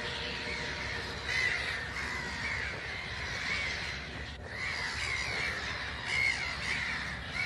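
Seagulls calling again and again, short arched cries one after another over a steady hiss.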